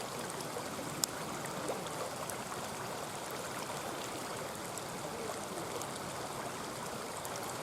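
Mountain stream babbling steadily, with a few sharp crackles and pops from a wood campfire, the loudest about a second in.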